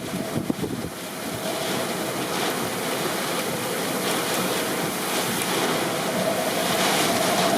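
Hurricane wind and heavy rain: a steady, loud rush of noise.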